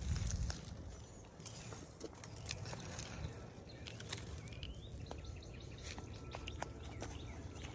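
Small birds chirping in short rising calls, with scattered light clicks and taps, over a low rumble that is strongest at the very start.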